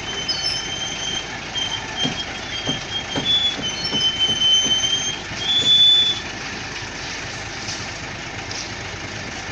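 Concrete mixer truck running, with a high metallic squeal that wavers and steps in pitch over the first six seconds and a series of clunks in the middle. After that it settles to a steady engine drone.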